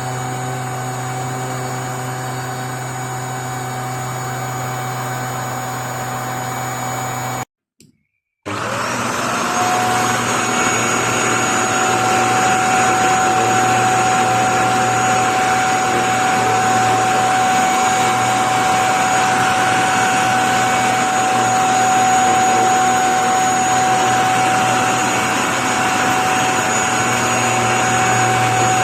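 Hychika handheld anti-dust-mite mattress vacuum (16 kPa) running with a steady motor whine. It cuts out abruptly about seven and a half seconds in, then starts again with a rising whine as the motor spins up, and runs on louder.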